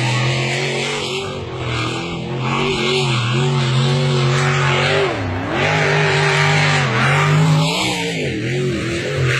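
Racing engine running hard at high revs, its pitch dipping sharply and climbing back about five seconds in and again near the end, over a steady rushing noise.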